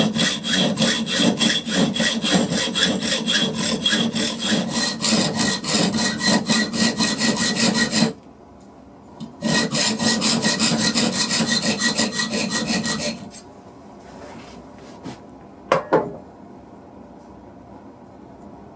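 Hand saw cutting wood in quick, even strokes, about four a second, with a faint ring from the blade. The sawing stops about eight seconds in, starts again a second later, and stops for good about thirteen seconds in; a short knock follows near sixteen seconds.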